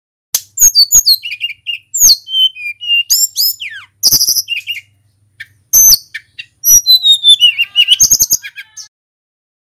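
Tledekan gunung songbird singing in rapid, varied phrases of clear high whistles, quick sweeping notes and short trills, with a brief pause about five seconds in and a falling run of notes near the end.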